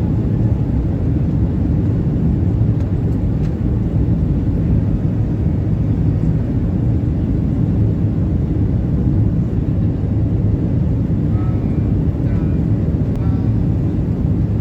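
Steady cabin noise inside a Boeing 737-800 airliner: an even, low rumble of engines and airflow.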